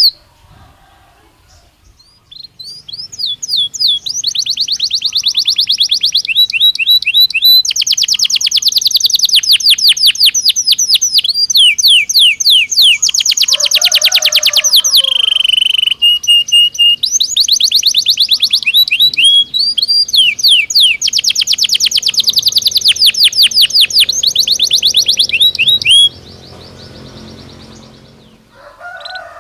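Belgian canary singing: fast rolling trills and chirp series, high-pitched, one phrase running into the next. The song starts about two seconds in and stops a few seconds before the end.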